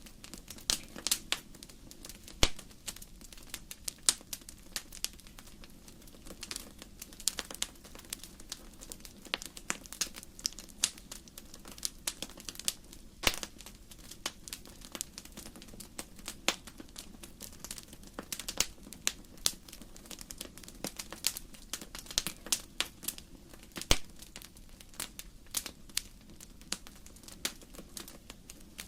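Wood fire crackling: irregular sharp pops and snaps of burning logs over a soft low hiss, with a few louder pops scattered through.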